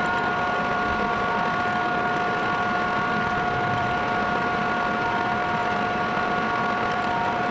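Metal lathe running steadily with a constant whine over an even machine hum, drilling and reaming the flow-valve hole through the fuel mixer body.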